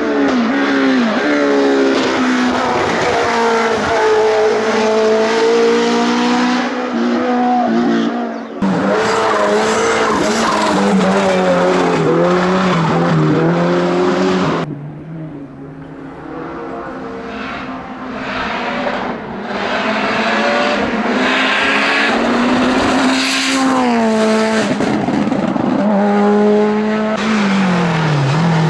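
Hillclimb race car engines at full throttle, the pitch climbing through each gear and dropping at upshifts and braking. Three passes are cut together, with sudden changes about 9 and 15 seconds in.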